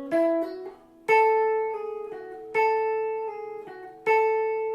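Guitar playing a short single-note lick with hammer-ons and a pull-off, the same phrase repeated three times about a second and a half apart.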